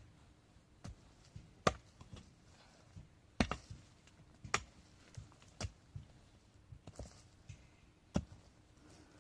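A series of sharp knocks or chopping strikes, about six of them, irregularly spaced, a second or two apart.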